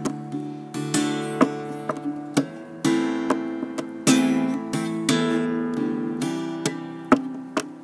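Acoustic guitar played percussively: strummed and plucked chords, with sharp knuckle knocks on the guitar's body in between.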